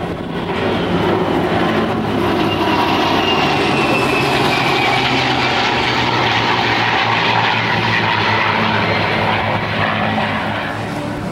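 A formation flypast of a U.S. Air Force A-10 Warthog jet with P-51 Mustang and P-38 Lightning piston warbirds: a steady mix of engine drone and jet whine that builds about a second in, with a faint falling whine as the formation passes, and eases slightly near the end.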